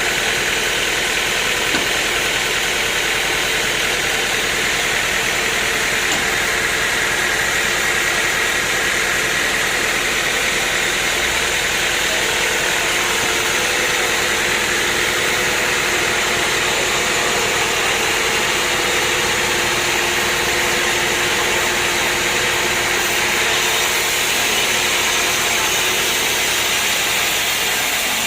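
Sawmill machinery running with a loud, steady mechanical noise and a constant hum, with no breaks or sudden knocks.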